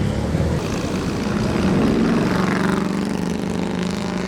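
A car engine running, growing a little louder and shifting in pitch about two seconds in.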